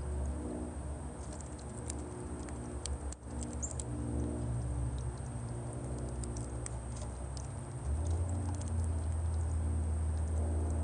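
Birds making many small, irregular ticks and short chirps over a steady low drone of sustained, slowly changing tones.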